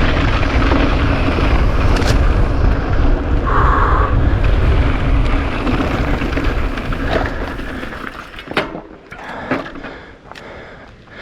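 Kona Operator downhill mountain bike riding fast down a rough dirt-and-rock trail: tyres rumbling, the bike rattling and wind buffeting the helmet mic. About eight seconds in, the bike slows and the rumble drops away, leaving scattered clicks and knocks.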